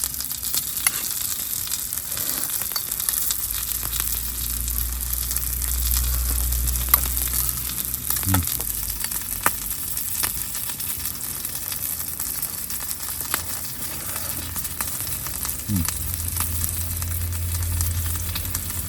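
Food sizzling in a pan over a fire: a steady hiss with scattered crackles and pops.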